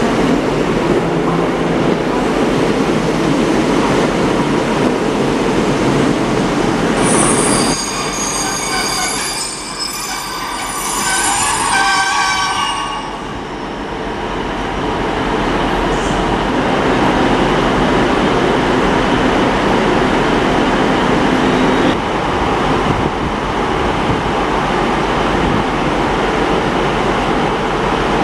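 Rail vehicle running with a steady rumble; about seven seconds in, its wheels squeal at several high pitches at once for about six seconds before the steady running noise resumes.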